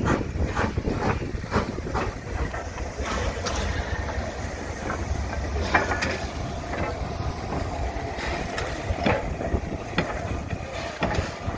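Heritage railway train with a steady low rumble and irregular clanks.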